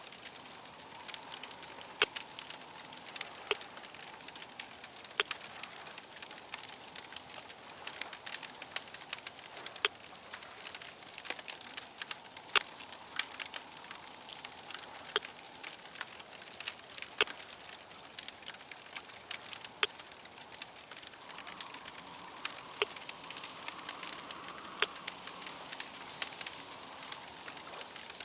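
Fire crackling, with a steady hiss and frequent sharp, irregular pops.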